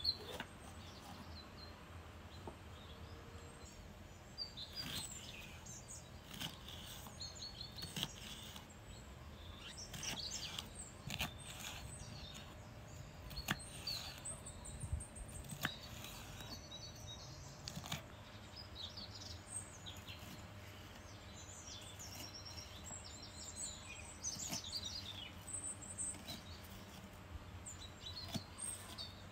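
Small birds chirping on and off, with a few faint clicks or knocks among them over a low steady background.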